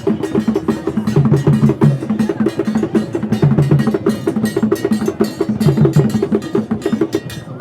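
Percussion music: drums at several pitches playing a fast repeating rhythm over rapid wood-block-like knocks.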